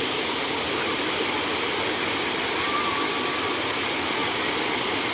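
Waterfall: falling water making a steady, loud rush.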